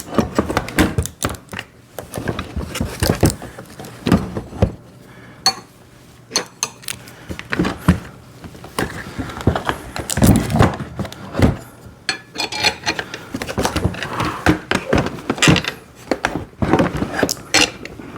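Irregular knocks, clicks and clinks of plastic and metal parts as a kids' ride-on toy motorcycle is laid on its side and its handlebar parts are handled during assembly.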